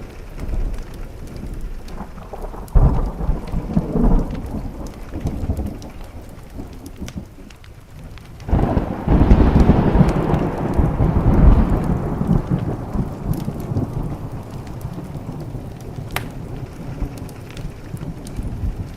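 Thunderstorm: thunder rumbling over steady rain on a window, with a shorter rumble about three seconds in and a long, loud roll that breaks suddenly near the middle and fades slowly. Sharp crackles of a wood fire sound now and then.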